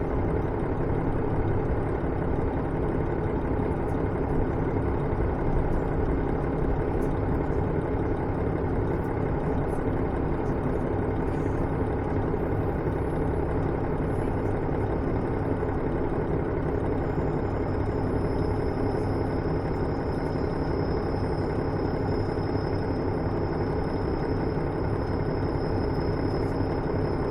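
Interior sound of a KiHa 110 series diesel railcar, its diesel engine running in a steady rumble. A thin high whine comes in about two-thirds of the way through.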